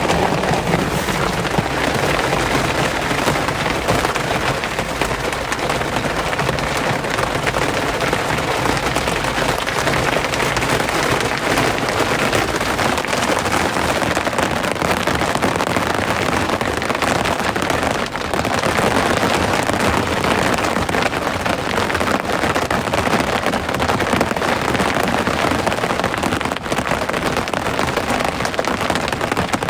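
Rain falling steadily: a dense, even hiss of many drops that holds level throughout.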